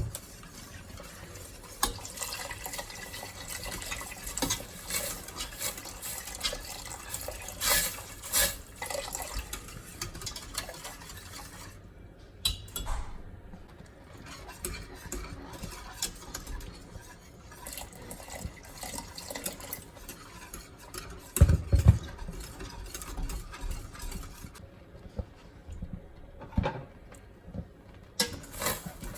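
Kitchen work sounds: liquid being poured and splashing, with utensils clinking and knocking against cookware. A single heavy thump comes about two-thirds of the way through.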